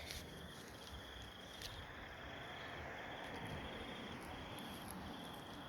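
Insect chirping: a string of short, high, pulsing trills, each under a second, with brief gaps between them.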